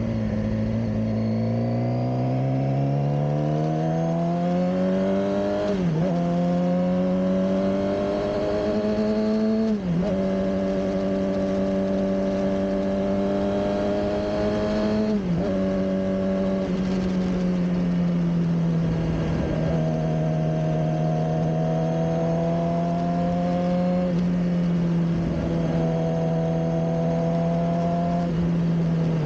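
Suzuki GSX-R600 inline-four engine pulling under load. Its note climbs, dips briefly three times as the bike shifts up a gear, then holds at steady revs for the second half.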